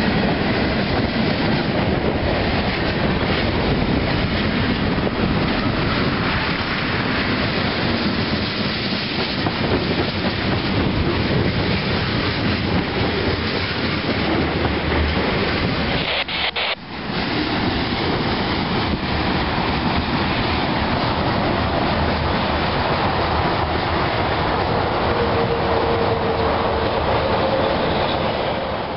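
Cars of a CSX mixed freight train rolling past at speed: a steady, loud rumble and clatter of wheels over the rails. The sound drops out briefly a little past halfway through, then carries on.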